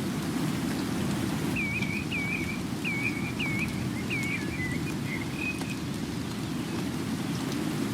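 Steady rain falling, with a bird singing a short phrase of about six clear whistled notes that dip and rise, starting about a second and a half in and stopping a little past halfway.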